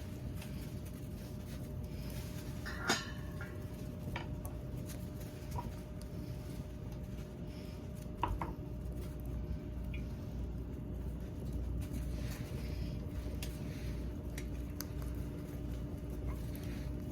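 Light clinks and clicks of cookware over a steady low rumble, with two sharper knocks about three and eight seconds in, the first with a short ring.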